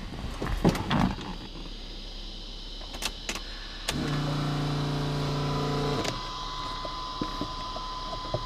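A few clicks, then a small electric motor hums steadily for about two seconds and cuts off, leaving a faint steady high-pitched whine.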